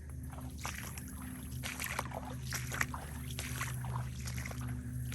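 Feet wading through shallow floodwater, a string of repeated sloshing splashes at about walking pace, over a steady low hum.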